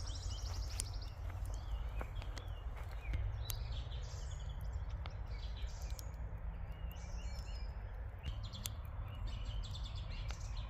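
Small birds chirping and trilling on and off over a steady low rumble, with a few sharp clicks scattered through.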